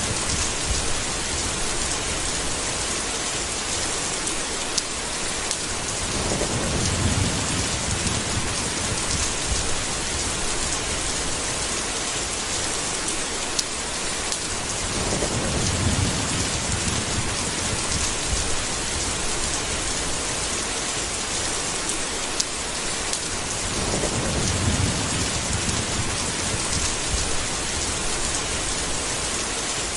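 Steady heavy rain hissing, with low rolls of thunder swelling up three times, about nine seconds apart, and a few sharp drips standing out.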